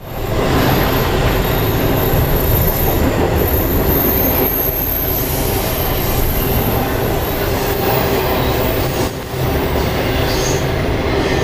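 Freight train rolling on the rails: a loud, steady rumble of wheels and cars, with a thin, high wheel squeal held over it.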